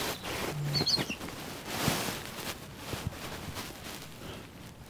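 A short, high bird call just under a second in, over the soft irregular thuds of footsteps on an earth path and outdoor background noise.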